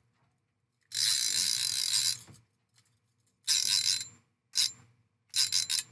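Fishing reel ratcheting in four bursts: one long run of about a second and a half, then three shorter ones. This is typical of line being pulled off or wound in as a fish fights.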